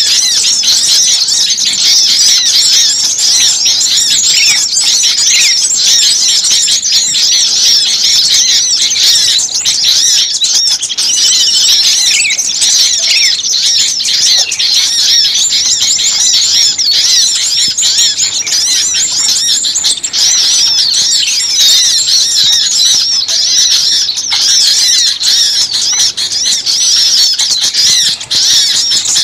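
A dense chorus of many small songbirds chirping and twittering at once, high-pitched and continuous. It is a bird-lure recording of mixed small-bird calls.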